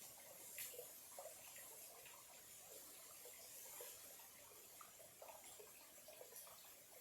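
Small clear-water stream trickling faintly, with many small irregular gurgles over a light steady hiss.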